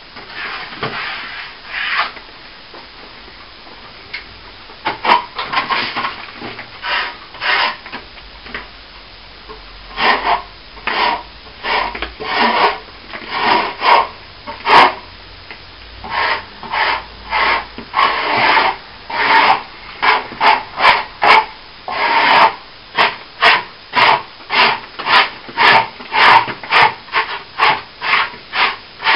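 Rhythmic abrasive rubbing strokes worked by hand over a plaster wall. The strokes are scattered at first, then settle into a steady back-and-forth that quickens to about two strokes a second.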